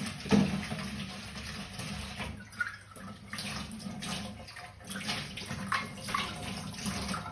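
Water running from a tap, splashing steadily as something is rinsed under it.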